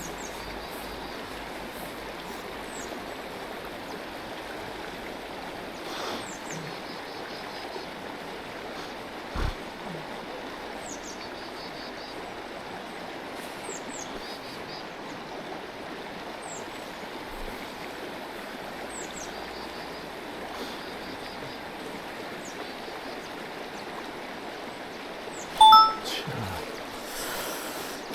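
Mountain stream running steadily, with short high chirps repeating throughout and a brief louder sound near the end.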